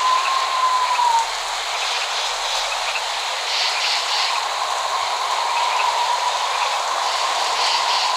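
Steady rain hiss, with no thunder. A thin, steady tone fades out about a second in and comes back about halfway through.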